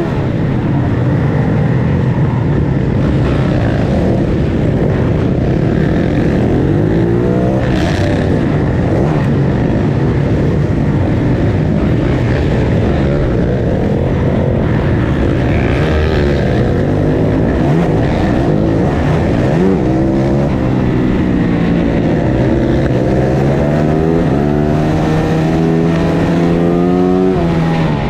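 Onboard sound of a 450 supermoto race bike's engine at racing speed, its pitch repeatedly climbing as it revs and dropping at each gear change, several times in quick succession near the end. Other supermoto bikes in the pack run close by.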